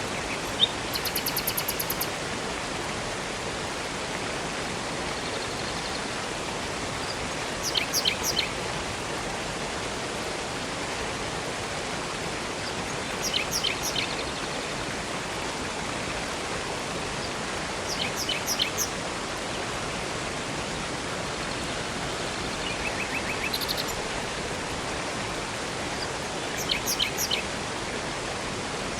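Steady rush of flowing water from a river and waterfall, with a songbird calling a short phrase of three or four quick high notes about every five seconds. A fast high trill comes in near the start.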